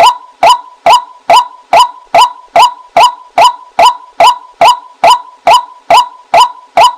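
Female white-breasted waterhen lure call: loud, short calls repeated evenly, a little over two a second, at one steady pitch.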